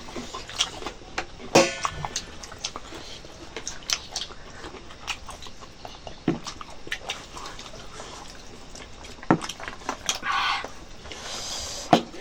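Close-up eating sounds of rice and chicken curry being chewed: scattered wet smacks and clicks of mouth and lips. A longer noisy stretch comes near the end.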